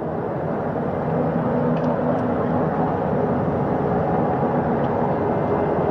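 Navy helicopter running on a ship's flight deck just after touching down: a steady rotor and engine noise that grows a little louder over the first second.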